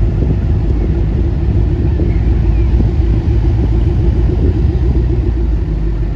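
A motor vehicle running, a steady low rumble.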